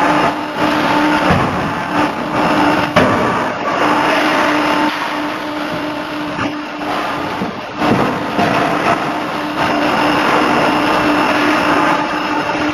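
C92K-50 KJ CNC hydraulic forging hammer at work in a forge shop: a loud, continuous machine din with a steady hum, broken by a few sharp blows at irregular intervals.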